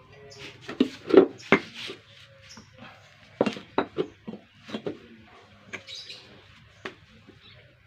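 A series of short, irregular knocks and clinks, about a dozen, the loudest in the first half.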